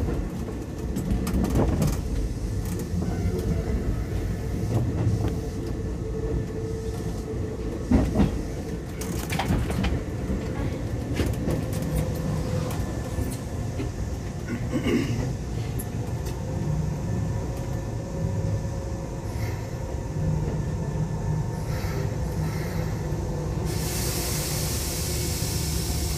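Keisei 3500 series electric commuter train heard from inside: a steady low rumble with a few sharp knocks. A hiss sets in near the end.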